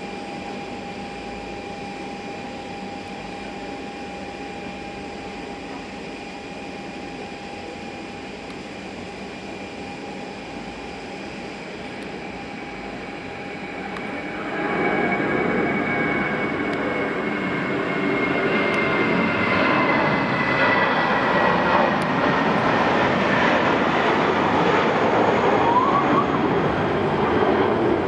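Airbus A320 jet engines: a steady whine with high, even tones, then about halfway through a sudden rise into a loud roar, as at takeoff power, with a whine that slides slowly down in pitch.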